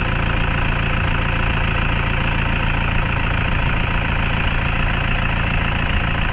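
A Toyota Fortuner's diesel engine idling steadily with its usual clatter. It is kept running so the automatic transmission fluid level can be read on the dipstick after a refill.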